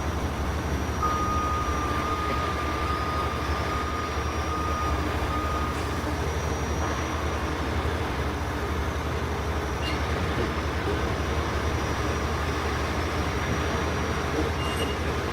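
Steady low rumble of heavy truck engines running, with a thin high tone held for about five seconds starting about a second in.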